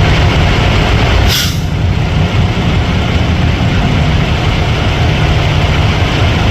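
Semi truck's diesel engine idling, a steady heavy rumble with hiss over it, and a short high hiss about a second and a half in.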